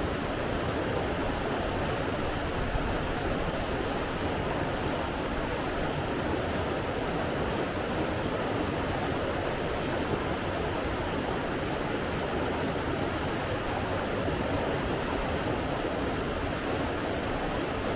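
Steady rushing water, an even hiss and rumble that does not rise or fall.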